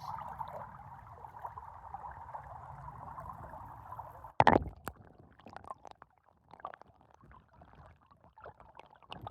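Flowing stream water, a steady rush. About halfway through there is a single loud thump, after which the water is quieter, with scattered small ticks and splashes.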